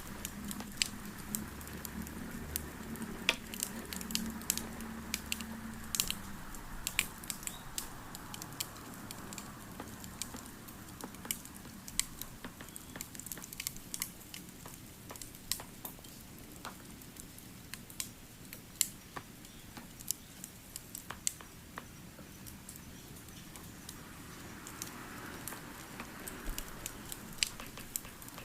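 Wood fire crackling, with irregular sharp pops over a soft steady hiss; a low hum sits under it for the first few seconds.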